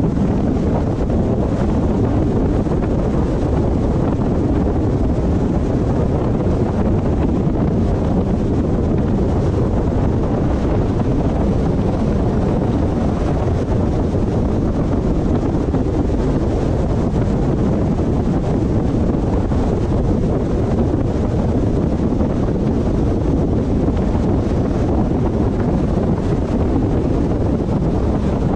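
Steady road and wind noise of a car driving at a constant pace: an even, unbroken rumble.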